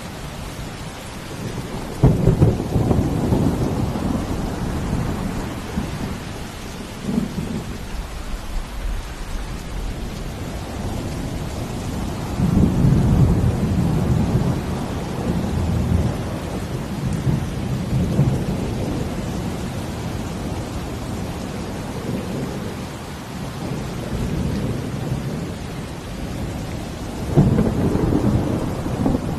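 Steady rain with thunder. A sudden clap comes about two seconds in, a long rolling rumble follows in the middle, and another sudden clap comes near the end.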